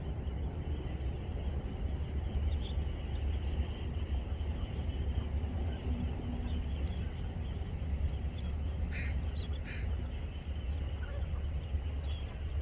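A steady low rumble and hiss of outdoor wind, with two short, high bird calls about nine and ten seconds in.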